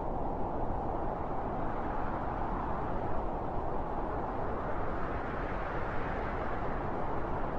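Strong wind blowing in a steady, deep rush that swells slightly about halfway through.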